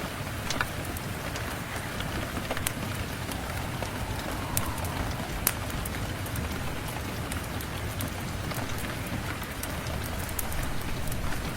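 Steady rain, with scattered sharp crackles and pops from a wood fire in a fireplace.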